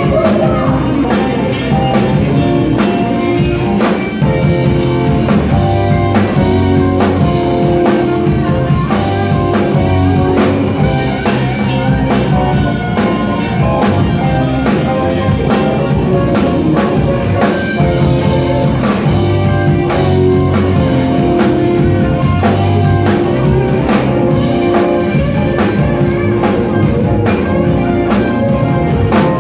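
Rock band playing an instrumental passage with guitar, bass and drum kit, with no singing.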